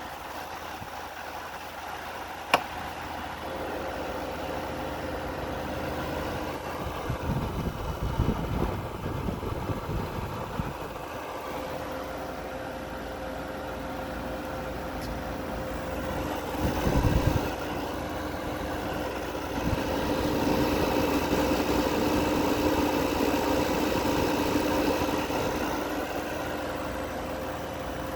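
Midea 5,000 BTU window air conditioner running: a steady rush of air with a hum whose two tones set in a few seconds in. There is a sharp click about two and a half seconds in, and low rumbles come and go twice.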